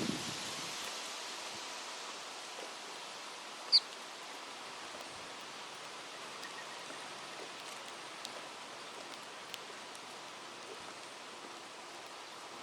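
Wind rustling through leaves as a steady hiss, with one short, high bird chirp about four seconds in.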